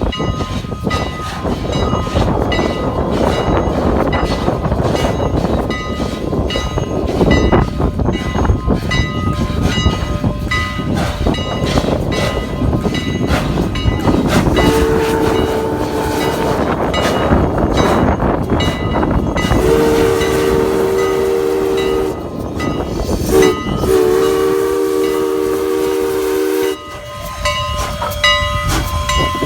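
Strasburg Rail Road No. 89 steam locomotive running, its steam whistle blown in the grade-crossing pattern, long, long, short, long, over the steady running noise in the second half.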